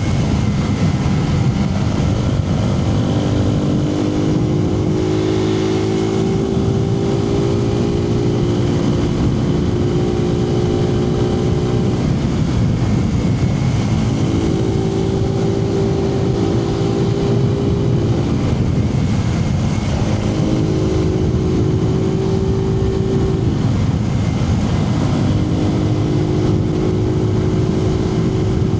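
Suzuki TU250X's air-cooled single-cylinder engine running under way, heard from inside the rider's helmet over steady wind rush. The engine note holds steady for stretches of several seconds, dropping away briefly between them.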